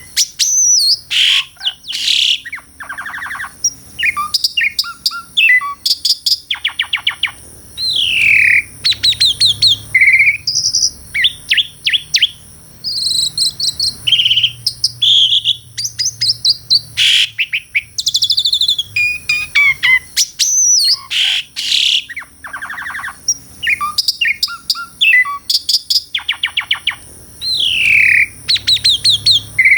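Asian pied starling (jalak suren) singing a long, varied song of loud whistles, sliding notes and rapid buzzy chattering trills. A steady high-pitched background tone runs underneath.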